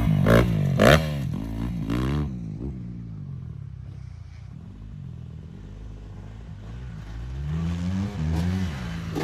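Dirt bike engine revving hard close by, its pitch rising and falling sharply through the first two seconds. It then fades into the distance, and engine noise builds again near the end.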